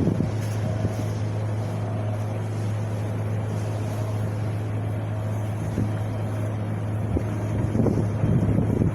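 Steady wind blowing, with a constant low rumble underneath and gusts buffeting the microphone, strongest near the end.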